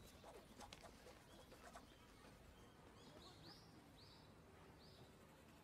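Near silence: quiet room tone with a few faint ticks in the first two seconds, then a small bird chirping faintly, about four short chirps from about three seconds in.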